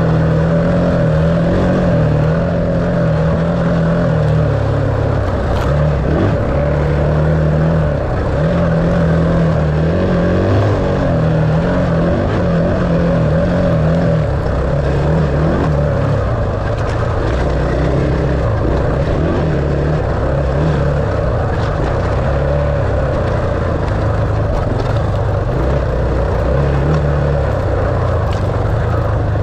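Enduro dirt bike engine running under way, its pitch rising and falling as the throttle opens and closes.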